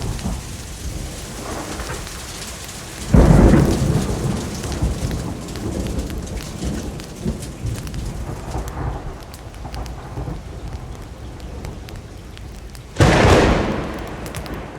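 Steady rainfall with two sudden claps of thunder, one about three seconds in and one near the end, each rumbling away over a second or two.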